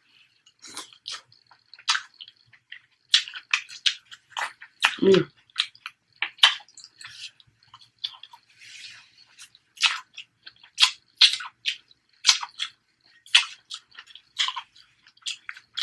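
Close-miked eating sounds: wet chewing with many sharp mouth clicks and smacks, and a short hum of approval about five seconds in.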